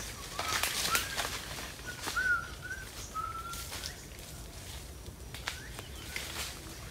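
A bird calling with a string of short whistled notes, some rising and some arched, over the first few seconds. Scattered sharp crackles of footsteps on dry leaves and twigs run alongside.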